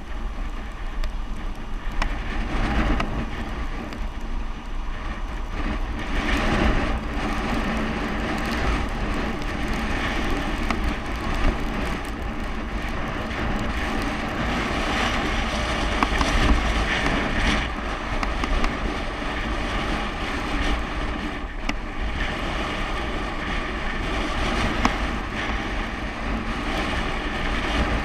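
Steady wind rushing over the microphone, with road rumble, while riding a bicycle down a mountain road.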